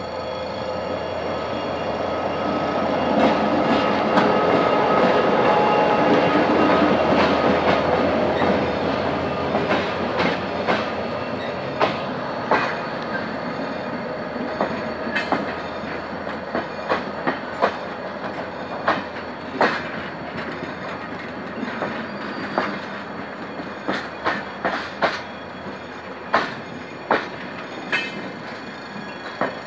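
GM GT-22 diesel-electric locomotive passing close by with its EMD two-stroke diesel engine running, loudest in the first several seconds as it goes past. Its passenger coaches then roll by with a run of sharp wheel clacks over the rail joints, often in quick pairs.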